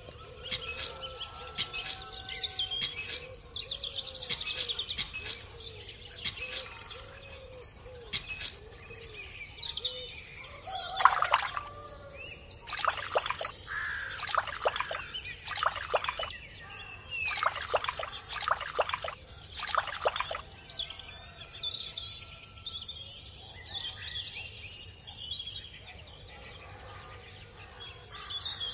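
Birdsong: many small birds chirping and calling over one another, with a run of louder calls in the middle.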